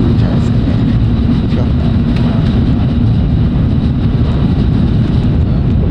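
Tokaido Shinkansen bullet train running at speed, heard from inside the passenger car as a loud, steady, low rumble.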